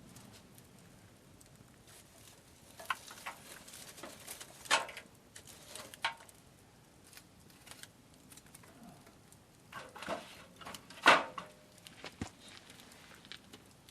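Scattered clicks, taps and clatters of small objects being handled, the two loudest about five seconds in and about eleven seconds in.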